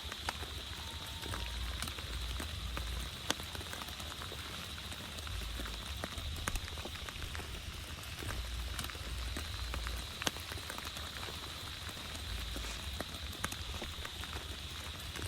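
Heavy rain falling steadily, with many drops tapping sharply close by and a few louder drop hits now and then, over a low, uneven rumble.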